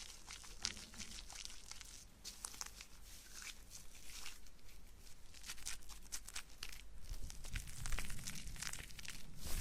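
Close-microphone ASMR trigger: a dense run of soft crackles and rustles, like foam or fingers worked right against the mic, with low rumbling handling noise building near the end.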